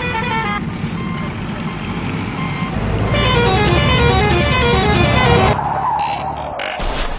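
Cartoon vehicle sound effects: a vehicle engine running with a low rumble under a stepping, horn-like electronic tune and toots. The tune plays in short runs of notes, stopping for a noisier stretch about half a second in and returning near the middle.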